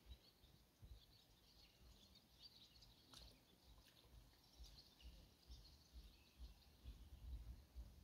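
Near silence: faint distant birds chirping over a soft, uneven low rumble.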